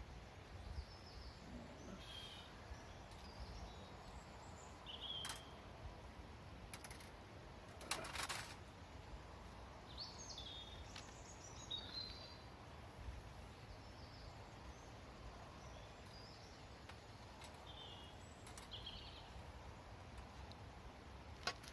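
Small birds chirping now and then. There are a few light clicks and a short metallic clatter about eight seconds in as the wire grill is lifted off a portable charcoal barbecue.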